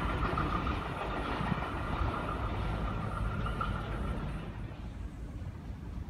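A passing train receding down the line: its rumble carries a steady high ringing tone, and both fade away about four and a half seconds in.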